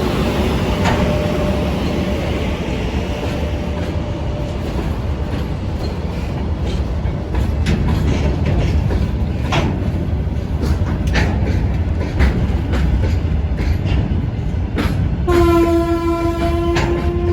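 A freight train rolling past behind an EP1M electric locomotive: a steady heavy rumble with irregular clicks of wheels over rail joints. About fifteen seconds in, a train horn starts and sounds one steady note until the end.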